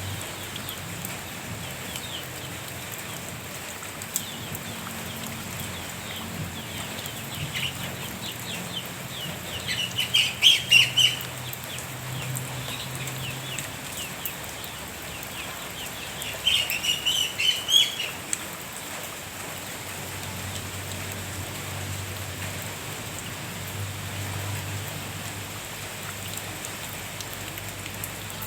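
Steady rain falling, with a bird calling in two rapid, loud bursts, the first about ten seconds in and the second about six seconds later.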